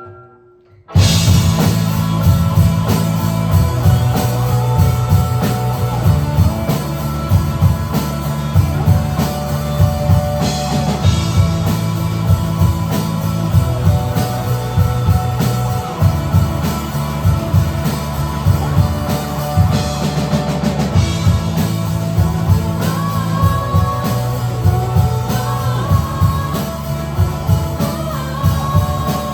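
Live rock band: after a faint held note, drums, bass and electric guitar come in loud together about a second in and play on over a steady driving beat.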